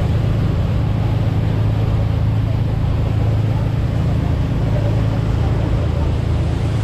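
A tour boat's engine running steadily under way, a constant low hum with a wash of noise above it.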